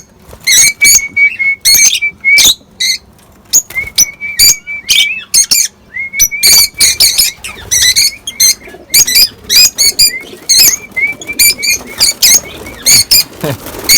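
Lovebirds calling: a dense run of sharp, high-pitched chirps several times a second, with some held whistled notes among them.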